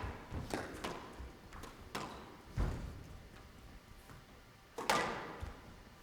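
Squash rally: the ball cracking off rackets and the court walls in sharp knocks about every half second to second, with a loud strike about five seconds in.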